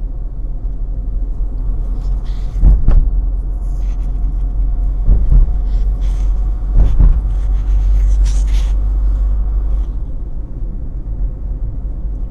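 Steady low rumble of a car on the move, heard from inside the cabin, with a few short thumps about three, five and seven seconds in.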